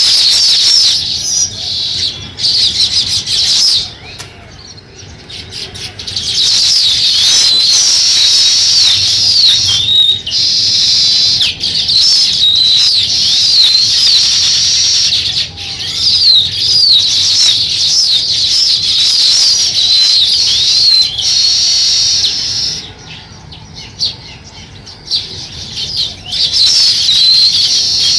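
A flock of small birds chirping and chattering in a dense, overlapping chorus, easing off briefly twice.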